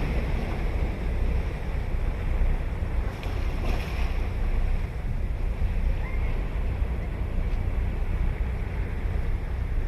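Ocean surf washing and breaking on a sandy beach, a continuous rushing noise, with a low wind rumble on the microphone underneath.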